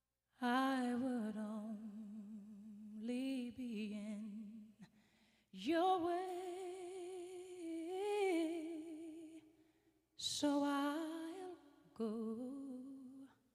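A voice humming a slow, wordless melody with strong vibrato, in several long held phrases with short breaks between them.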